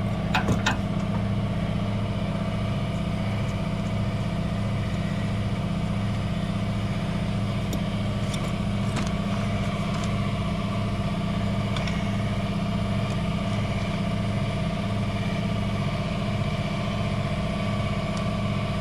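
An engine idling steadily at an even speed, with a few light clicks and taps over it.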